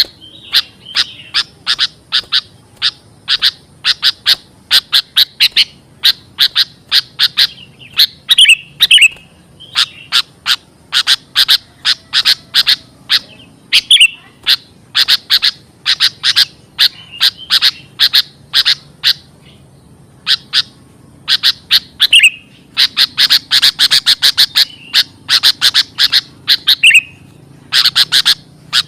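Sooty-headed bulbul (kutilang) calls used as a bird-lure recording: runs of short, sharp chattering notes, several a second, broken by short pauses and the odd lower slurred note.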